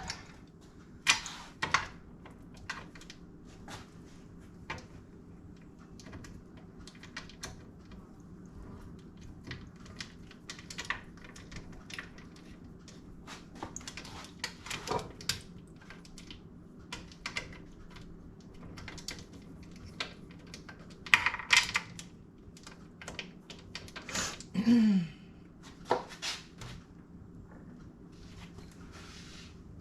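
Scattered metal clicks, clanks and knocks as a Presto pressure canner is loaded and its lid locked down, with a louder clatter about 21 seconds in, over a steady low hum.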